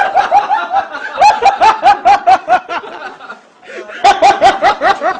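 Loud laughter in rapid rhythmic "ha-ha-ha" bursts, breaking off briefly past the middle and then starting up again.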